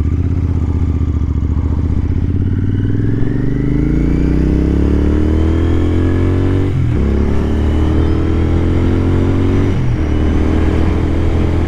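Royal Enfield Continental GT 650 parallel-twin engine accelerating under load, its pitch rising steadily. It breaks off and drops for a gear change about seven seconds in and again about ten seconds in, then holds a steady note, with wind rush over the helmet microphone.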